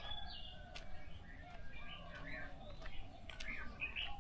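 Dawn birdsong from several birds: short chirps and whistled calls coming and going, over a lower, softer cooing.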